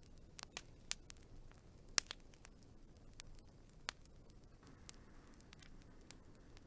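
Wood fire crackling: irregular sharp pops, the loudest about two seconds in, over a low steady rush.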